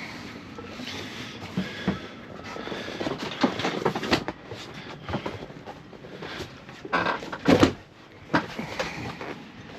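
Irregular knocks, bumps and clatter of gear being handled and lockers or hatches opened and shut aboard a sailboat, with a louder pair of thumps about seven and a half seconds in.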